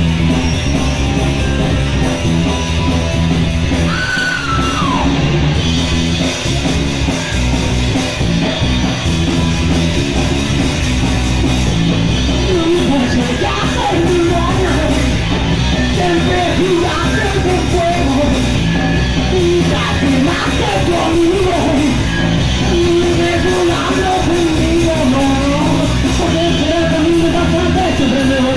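Punk rock band playing live: loud electric guitars with shouted singing over them, the vocals coming in mostly in the second half.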